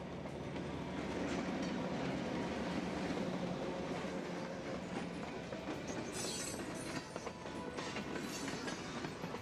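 Diesel freight train of EMD locomotives and chip cars passing on a run-by: a steady engine drone first, then, from about six seconds in, wheels clicking over the rails with high-pitched squealing.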